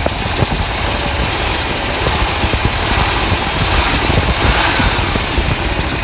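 A 1996 GMC 1500 pickup's engine running roughly, with uneven low pulsing, just after the owner says something in it has blown up.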